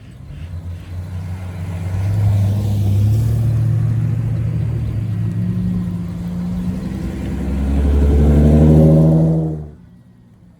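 A VIP-style custom car with an aftermarket exhaust drives past, its engine note building and then rising in pitch as it accelerates. The sound cuts off suddenly near the end.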